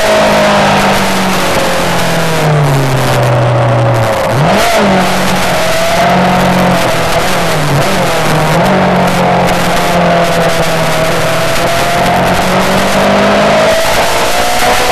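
Yamaha R6 600 cc inline-four engine running at high revs under heavy wind rush, its pitch stepping down a few times about one to four seconds in, then climbing back and holding steady.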